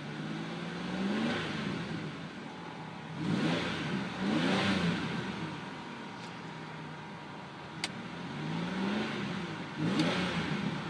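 The 2004 Buick Rendezvous's 3.4-litre V6 running at idle and revved about five times, each rev climbing and dropping back to idle, two of them in quick succession in the middle.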